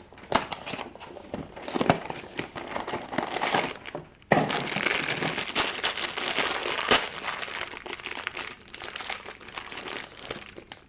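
Crinkling and crackling of Funko Mystery Mini packaging being torn open and handled, getting louder about four seconds in.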